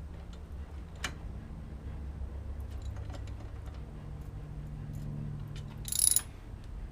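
Socket ratchet clicking in short, irregular runs as the exhaust clamp bolts are tightened, with one brief, louder clatter about six seconds in.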